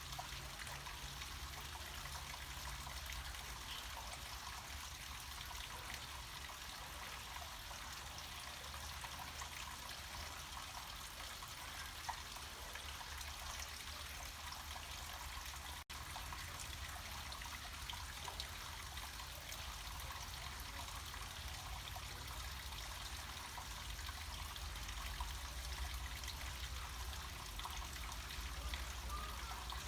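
Small mountain stream of water trickling and splashing downhill in a steady flow, with a low rumble underneath. The sound drops out for an instant about halfway through.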